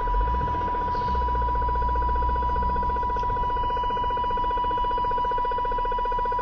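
RF interference coming through a CB radio's speaker on channel 29: a steady high tone over a fast, even pulsing buzz. The uploader matches this oscillating pattern to the interference from a plant grow light.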